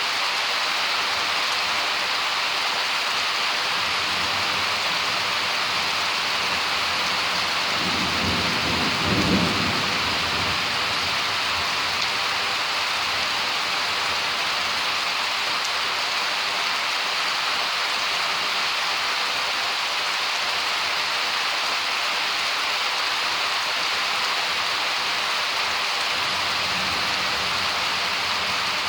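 Steady heavy rain from a summer thunderstorm. A roll of thunder rumbles through it about a third of the way in, and a fainter one follows near the end.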